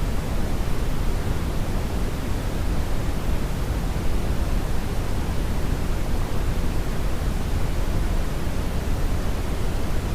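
Brownian noise: a steady, even rushing hiss weighted heavily toward the low end, with no events or changes.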